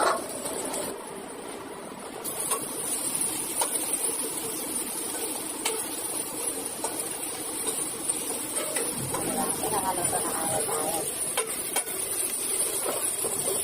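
Indistinct background voices, a few light clicks and a steady high hiss.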